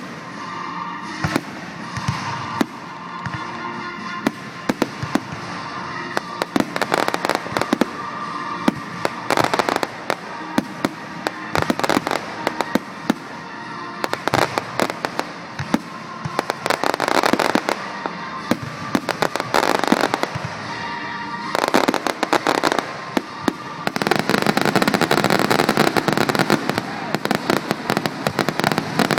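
Fireworks display: repeated bangs and crackling bursts in clusters, becoming a dense continuous barrage over the last several seconds, with music playing in the background.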